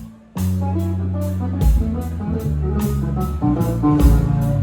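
Live band playing an instrumental passage between sung lines: guitar over held bass notes, with a steady drum beat and cymbals. The music drops out briefly at the very start and comes back in.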